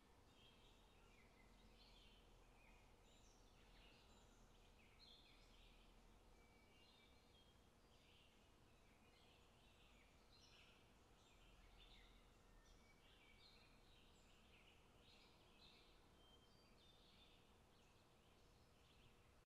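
Near silence with very faint birdsong: many short, high chirps throughout over a low hiss.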